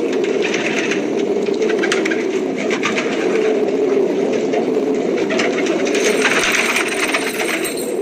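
Pigeons cooing continuously, with patches of higher-pitched noise coming and going.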